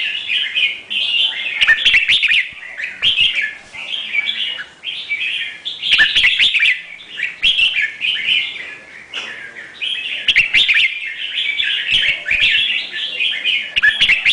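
A songbird chirping and singing in quick, busy phrases of about a second each, separated by short pauses, with a few sharp clicks in between.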